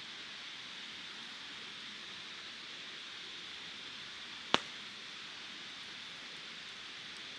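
A steady, even hiss, with one sharp click about four and a half seconds in.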